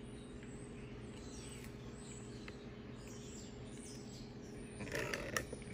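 Faint high chirping of small birds over a steady low hum. About five seconds in, a brief rustle with a few sharp clicks is the loudest sound.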